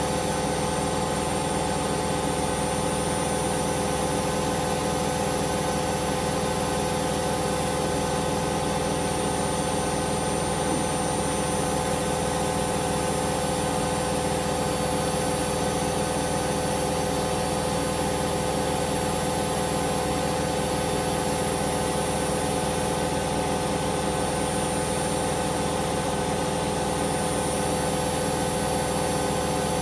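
Hoover Vision Dynamic washing machine running steadily: a constant motor hum and whine with several steady tones, with no pauses or changes in speed.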